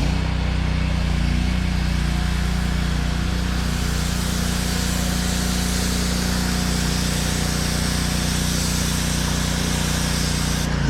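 Pressure washer's engine running steadily under the loud hiss of water spraying from a low-pressure nozzle, a tip too weak to lift the concrete slurry. Just before the end the spray stops while the engine keeps running.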